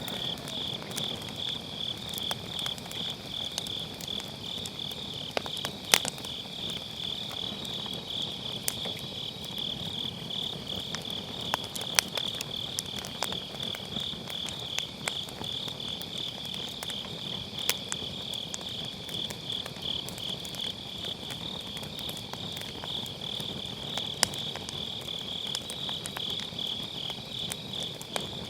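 Crickets chirping in a steady, fast-pulsing trill, with a wood fire in a fire pit crackling and giving sharp pops now and then, the loudest about 6 and 12 seconds in.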